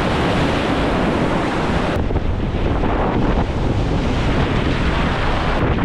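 Whitewater rapids rushing loudly and steadily around a raft, with wind rumbling on the microphone.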